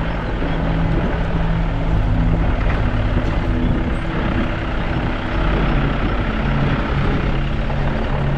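Car driving on a rough mud road, with steady engine and road noise and a low engine hum that shifts in pitch every second or two.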